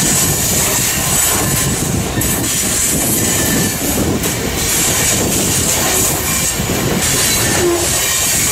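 Covered grain hopper cars of a freight train rolling past close by: a steady rumble and clatter of steel wheels on the rails.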